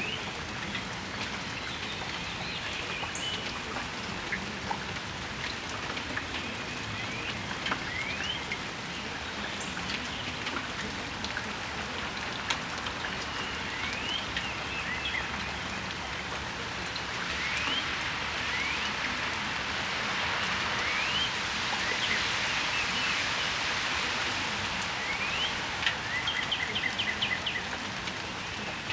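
Steady rain falling on a patio, with small drops pattering. Birds give short rising chirps again and again, with a quick trill near the end. A broader hiss swells and fades in the middle.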